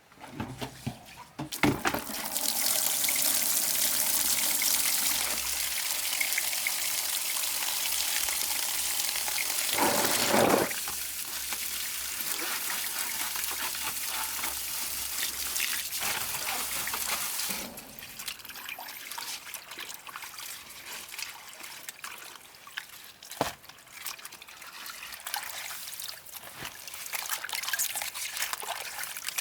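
Water running and pouring heavily, then dropping after about 17 seconds to a lighter, uneven trickle.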